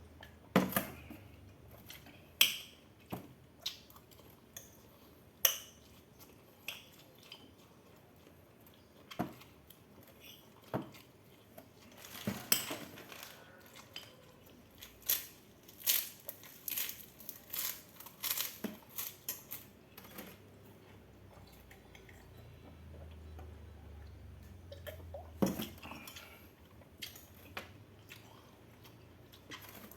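Spoon and fork clinking and scraping against a plate during fast eating: irregular sharp clinks, busiest in a quick run around the middle.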